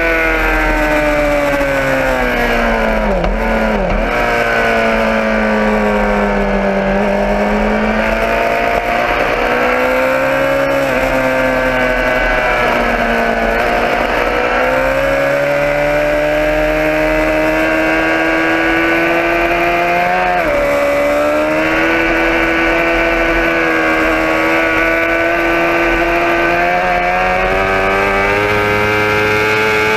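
Motorcycle engine running continuously under changing throttle, its pitch falling and rising slowly as it slows and speeds up. There is a sharp drop in pitch about three to four seconds in and a brief wobble around twenty seconds in.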